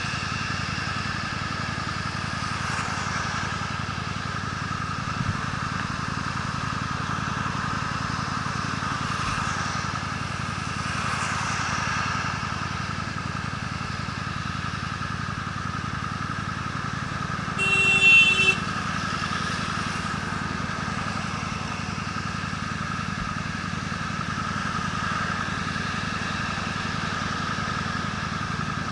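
Honda Steed V-twin motorcycle running steadily on the road, its engine and road noise unbroken. About two-thirds of the way in, a loud pitched tone sounds for about a second.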